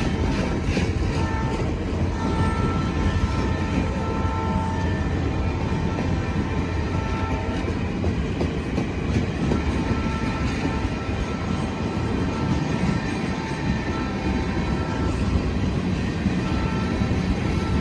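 Diesel freight train passing with a steady rumble and rail noise, while a locomotive's chord horn sounds in repeated blasts, some short and some longer.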